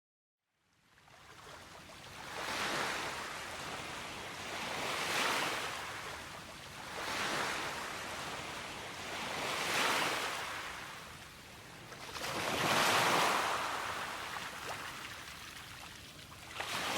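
Small waves washing onto a shore, the surf swelling and falling back every two to three seconds.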